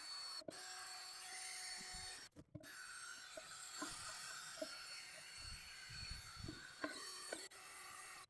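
Power tool with an abrasive attachment scrubbing the corroded, lifting finish off an aluminum truck wheel: a steady rasping hiss with a faint high whine, cutting out briefly three times.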